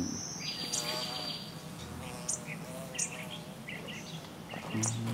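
Birds chirping in short, scattered calls around an orchard, with a high steady buzzing note in the first second or so.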